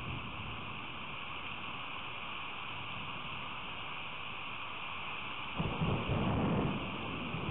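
Steady hiss of rain during a thunderstorm. A low rumble of thunder comes in suddenly about five and a half seconds in and carries on to the end.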